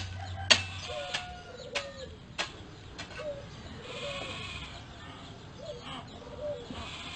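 Faint short animal calls repeating every half second or so, with a few sharp clicks among them in the first couple of seconds.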